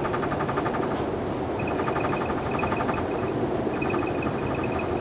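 Passenger train running: a steady rumble with fast, rapid rattling clatter and a faint high tone that comes and goes.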